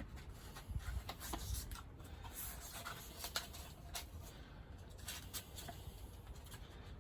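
Faint rustling, rubbing and scattered light clicks of sandpaper being handled while 1500-grit wet-sanding paper is swapped in.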